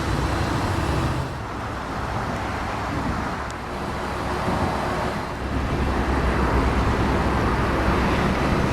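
Road traffic noise: a low rumble and hiss of passing vehicles that eases off a little and then grows louder in the second half.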